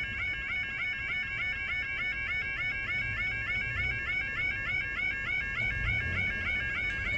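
Level crossing yodel alarm sounding without a break: a rapid two-tone warble repeating several times a second. It keeps going because the crossing has failed with one barrier stuck down.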